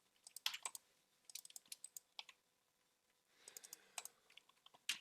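Faint, scattered clicking and tapping in small clusters, like a computer keyboard and mouse being worked.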